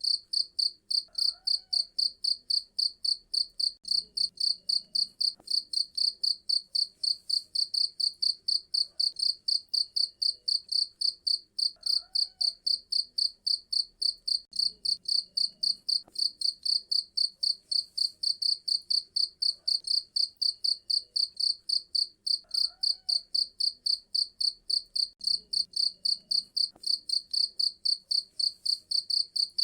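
A cricket chirping loudly and steadily: a rapid, even train of short, high-pitched chirps with no pauses.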